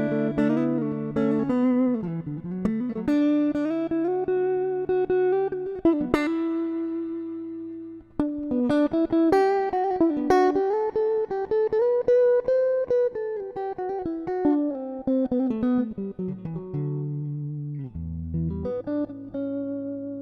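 Electric guitar (a Stratocaster) played through a Valeton Dapper Mini amp and cabinet-simulator pedal: a melodic lead line of sustained notes with string bends and vibrato. There is a short break about eight seconds in.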